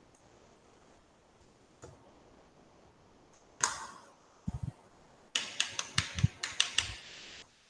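Computer mouse and keyboard clicks: a sharp click about halfway through, a couple of dull taps, then a quick run of about eight clicks near the end.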